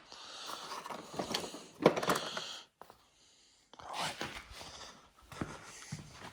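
Metal tools clinking and rattling in a toolbox as someone rummages through it, with one sharper knock about two seconds in.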